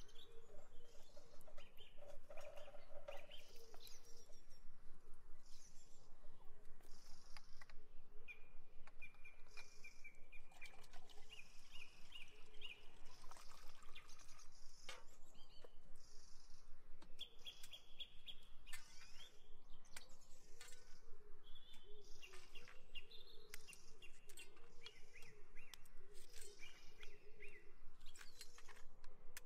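Birds chirping and singing, with trills of quick, evenly repeated high notes, over scattered light clicks and knocks.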